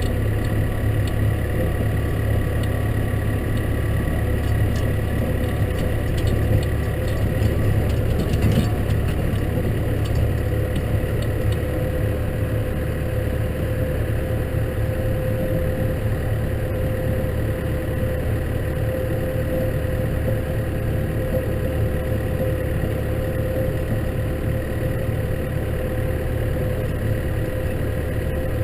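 Case tractor's diesel engine running steadily under plough work, with a steady whine joining about a third of the way in and a brief knock about eight seconds in.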